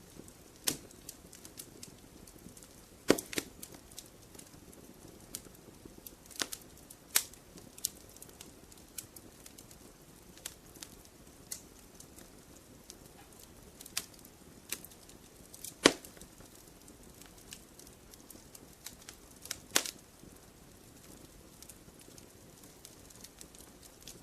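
Wood fire crackling in a fireplace: irregular sharp pops and snaps, a few much louder than the rest, over a soft steady hiss.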